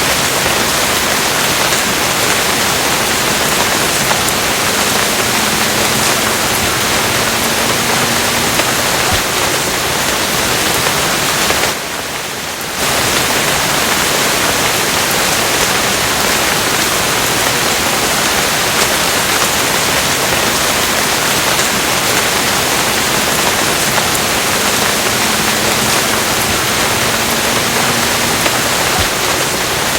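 Steady rain, a dense even hiss, dropping off briefly about twelve seconds in.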